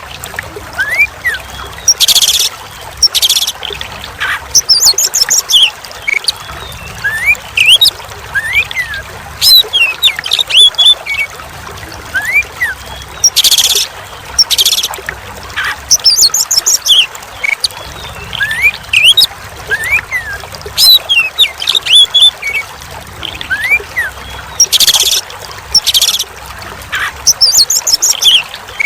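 Oriental magpie-robin (kacer) song: short rising whistles mixed with harsh, buzzy chattering notes, the same run of phrases repeating about every eleven seconds, over a steady trickle of running water.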